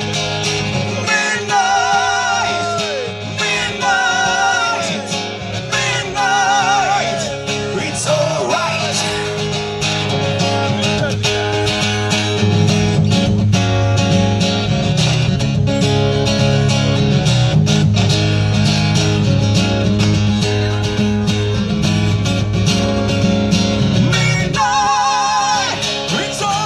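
Live rock song played on acoustic guitar with a male singer: steady strumming, with long wavering held notes in the first few seconds and again near the end.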